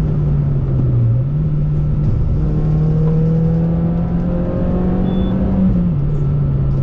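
Citroën C2 VTS's 1.6-litre 16-valve petrol four-cylinder running while driving: the revs dip about a second in, climb steadily for several seconds, then fall back near the end.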